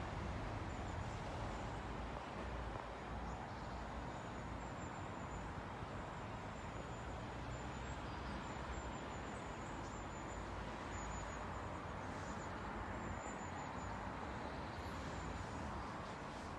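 Steady rumbling background noise with no clear events, and a faint, high, broken tone on top.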